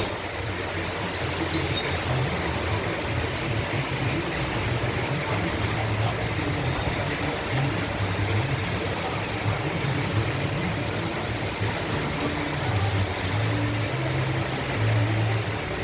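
Heavy rain falling in a steady downpour, with a low uneven rumble underneath.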